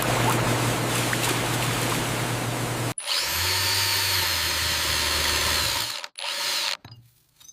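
A power tool running with a steady hum. It cuts off abruptly about three seconds in and gives way to another stretch of machine noise with a high whine. That stops near the end, after one brief burst.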